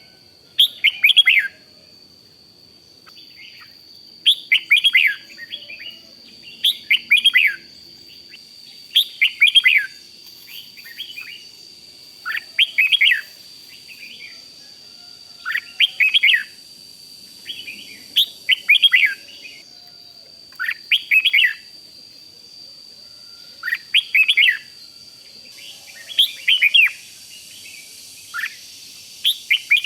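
Red-whiskered bulbul singing short, quick, chirpy phrases of a few notes each, repeated every two to three seconds, over a faint steady high-pitched tone.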